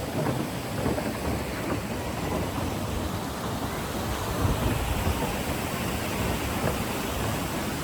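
Rushing stream water in a canyon: a steady, fairly loud rush with a low rumble underneath.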